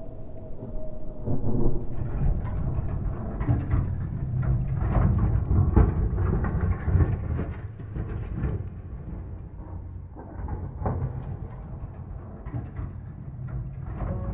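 Thunderstorm: low rolling thunder rumbling under rain. It is loudest in the first half and eases off after about eight seconds.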